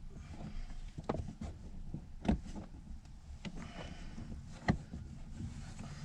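Car interior plastic trim panels and their retaining clips being handled and pried loose: a few sharp clicks and knocks, about a second in, near the middle and near the end, with a brief scraping rub in between.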